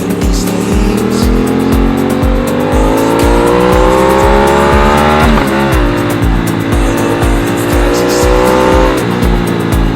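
Aprilia RS660 parallel-twin engine accelerating, its pitch climbing for several seconds, breaking and dropping about halfway as it shifts up, then rising again before easing off near the end. A steady thumping music beat runs underneath.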